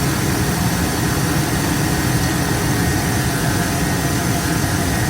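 GM Chevrolet truck's engine idling steadily, with the air conditioning running during a refrigerant recharge.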